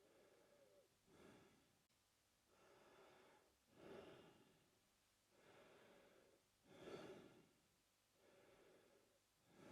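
A man breathing slowly through his mouth, faint and regular: softer and louder breaths alternate, about one full in-and-out every three seconds.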